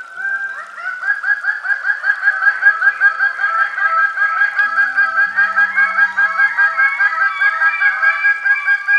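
Greater birds of paradise calling: a fast, steady run of short, arched call notes, about six a second. Several birds overlap at different pitches.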